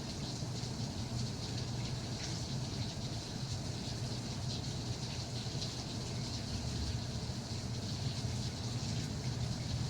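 Steady rain falling, an even hiss with fine pattering drops, over a constant low rumble.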